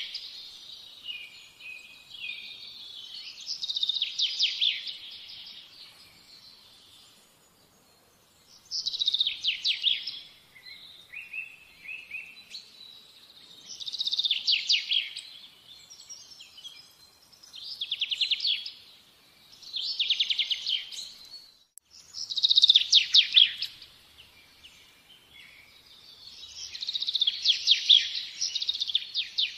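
Songbirds singing: short, high trilling phrases repeated every few seconds.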